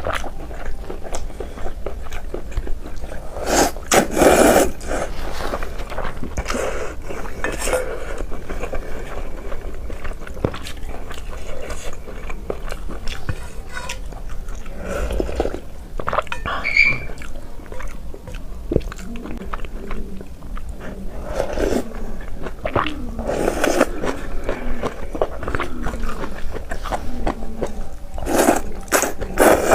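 Close-miked mukbang eating: chewing and slurping of soft food and noodles in broth, in uneven bursts with small mouth clicks.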